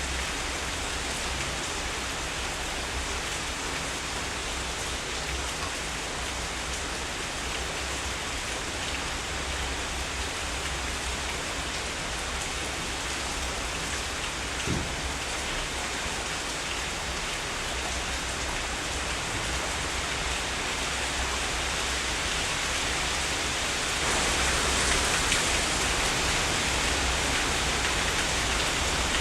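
Heavy rain falling steadily, a dense even hiss of drops. A single short knock about halfway through, and the rain grows louder near the end.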